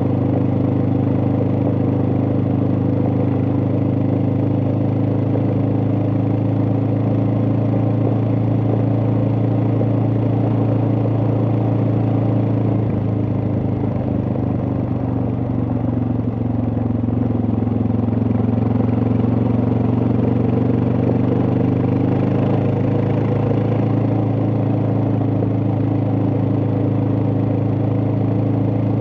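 Suzuki DR650's single-cylinder four-stroke engine running steadily while the motorcycle is ridden, its note dropping a little about halfway through and rising again about three-quarters of the way in.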